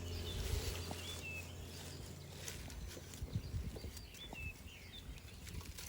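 Outdoor ambience with birds chirping in short rising and falling notes, and a few scattered light knocks and clicks.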